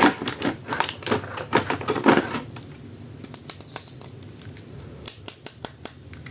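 Quick plastic clicks and rattles from handling a toy action figure, dense for the first couple of seconds, then sparser, with another quick run of clicks near the end.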